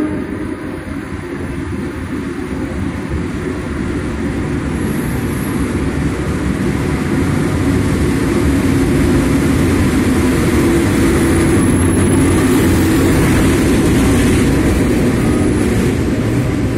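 CC 201 (GE U18C) diesel-electric locomotive drawing a train into the station, its engine and wheels on the rails growing steadily louder as it comes up alongside and the first cars roll past.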